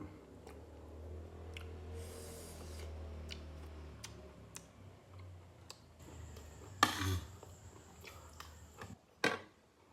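Close-miked eating: scattered small clicks and mouth sounds of chewing, over a low steady hum that stops near the end. Two louder sharp bites or knocks come about seven and nine seconds in.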